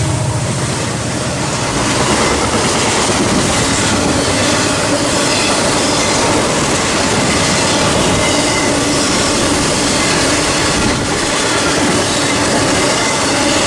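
Freight train cars rolling steadily past on the rails, with wheel clatter and a faint wheel squeal.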